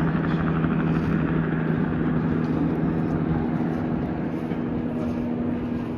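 Catalina flying boat's twin radial engines running, a steady drone whose note changes about halfway through.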